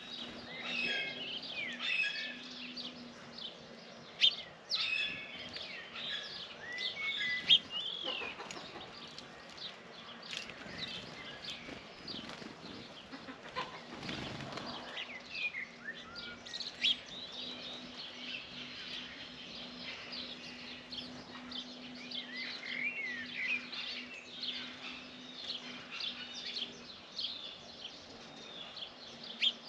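Many small birds chirping and twittering with constant overlapping short calls, broken by a few sharp taps and a brief rush of noise about halfway through. A faint steady low hum runs underneath.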